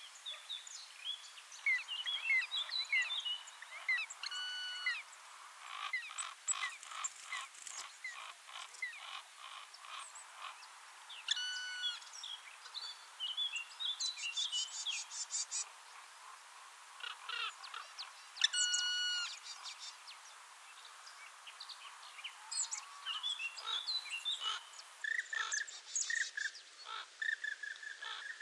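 Assorted wild birds calling and chirping: many short chirps, quick rattling trills, and a louder call with several overtones that comes three times, several seconds apart.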